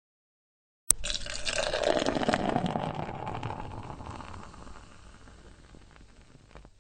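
Liquid pouring, starting with a sharp click about a second in, then fading away gradually over several seconds.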